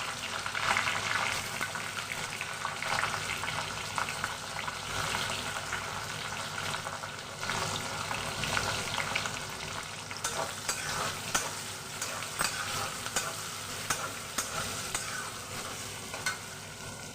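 Chopped onions frying in hot oil in a kadai, sizzling steadily while a spatula stirs them, with frequent scraping clicks of the spatula against the pan.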